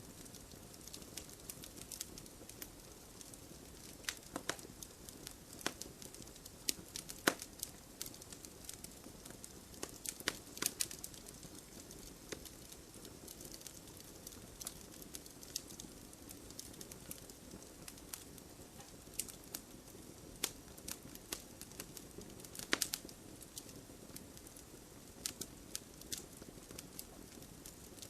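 Wood fire burning in a fireplace: irregular sharp crackles and pops over a soft steady hiss of flames.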